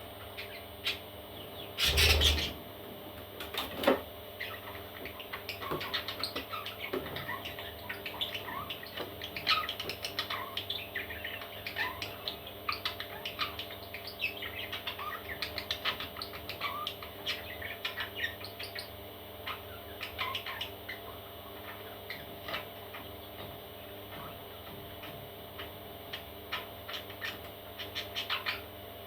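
Parrot chicks chirping, with many short, quick peeps coming one after another. A loud thump about two seconds in.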